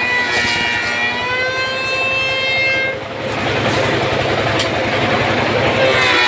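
Automatic woodworking machine shaping wooden tool handles, running with a steady low motor hum. A high whine sits over it for about the first three seconds, then gives way to a rougher, noisier stretch.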